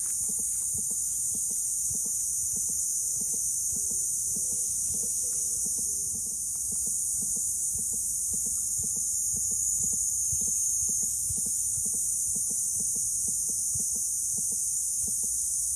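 Summer cicada chorus: a steady, high-pitched drone, with faint low bumps and rumbles beneath it.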